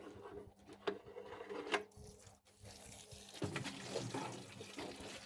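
Water running from a hose into a watering can as it fills, with a few short knocks and a faint steady hum.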